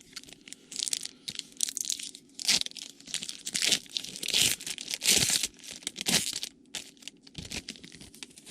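A trading card pack wrapper being torn open and crinkled by hand, in irregular bursts of rustling and tearing.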